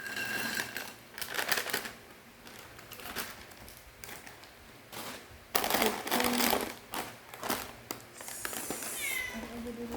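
Bursts of crunching and crinkling from a dry, crunchy macaroni snack and its plastic packet. A short, falling cat meow comes near the end.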